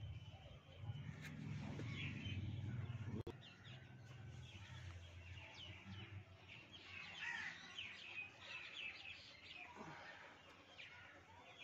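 Small birds chirping in the background, many quick short chirps, thickest in the middle stretch. A low hum runs under the first three seconds and cuts off abruptly.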